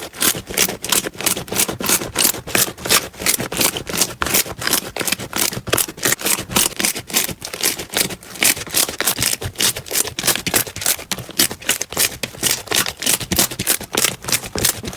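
Slime being squeezed and pressed by hand, giving a rapid, even train of sharp crackling pops, about five a second.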